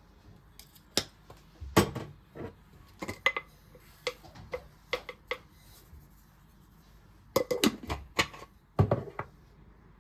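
Dishes and kitchen utensils clinking and knocking: a run of short sharp knocks, then a pause of about two seconds, then another cluster, the heaviest knocks coming near the start and near the end.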